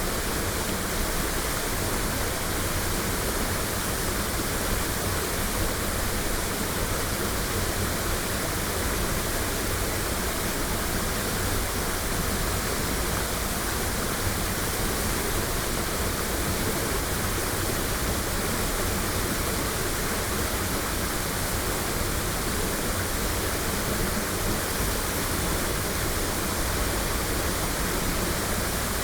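Waterfall: a steady, unbroken rush of falling water, recorded binaurally.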